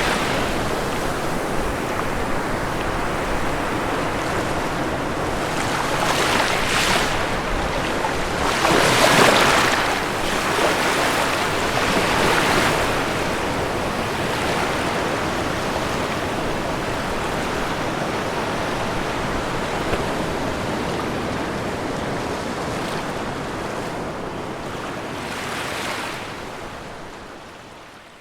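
Ocean waves breaking and washing on a shore, a steady rushing with several louder surges, the biggest about nine seconds in. The sound fades out in the last couple of seconds.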